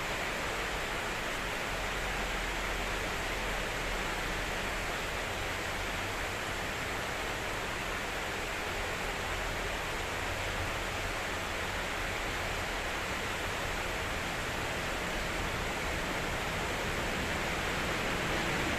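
Heavy storm rain pouring down in strong wind: an even, steady rushing hiss with no separate cracks or impacts.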